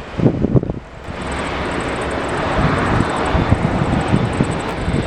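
Wind buffeting the microphone, then from about a second in the steady noise of a jet aircraft's engines.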